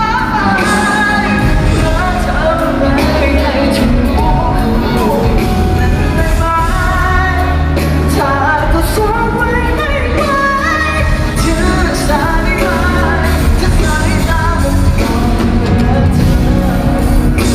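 Live pop music: a singer over a band with bass and a steady drum beat.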